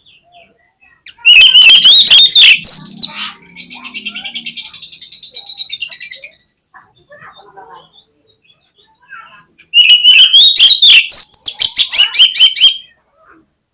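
Oriental magpie-robin singing: a loud burst of fast, varied whistled phrases about a second in, then a softer rapid chatter, and a second loud burst near the end.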